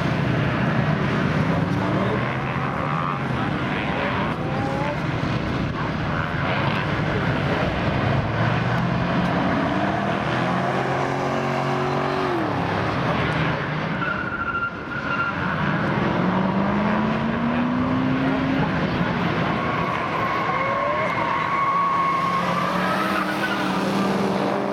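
Ford Mustangs' engines revving and easing off as they drive a coned circuit course, the pitch climbing and dropping again and again with throttle and gear changes.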